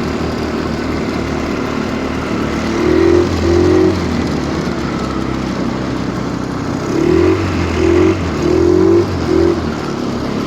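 Stels Kapitan Long snowmobile engine running under way in deep snow, with short bursts of throttle: two about three seconds in, then four more in quick succession later on.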